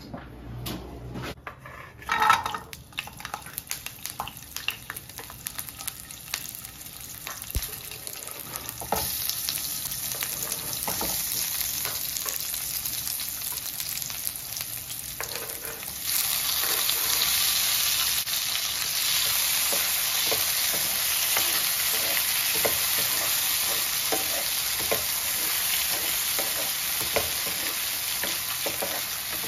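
Hot oil in a frying pan sizzling as onion and garlic go in, the sizzle starting about a third of the way through and growing louder about halfway, when chopped tomato is added. A wooden spatula stirs and taps against the pan. There are a few knocks before the sizzling starts, the loudest about two seconds in.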